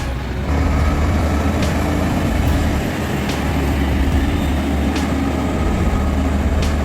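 Truck engine running steadily with a deep low drone, getting louder about half a second in, with a faint sharp tick roughly every second and a half.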